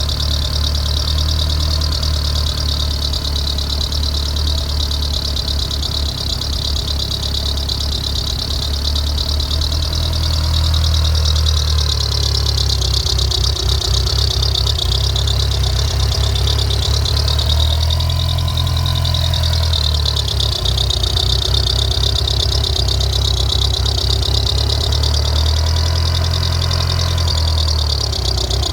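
A 2G DSM's engine idling after startup with a steady high-pitched belt squeal over the engine hum, which the owner traces to the timing belt. The idle rises and dips slightly a few times.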